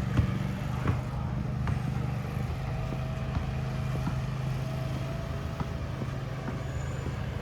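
Steady low hum of a running engine, with a couple of light knocks in the first second.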